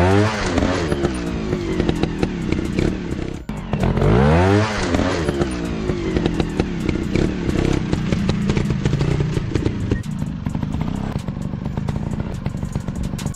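Off-road dirt bike engine revving hard. Its pitch rises and falls near the start and again about four seconds in, then it runs at a steadier throttle.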